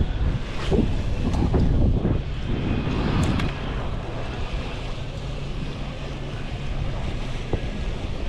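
Wind buffeting the microphone, gusty for the first few seconds and then steadier, with a few light clicks.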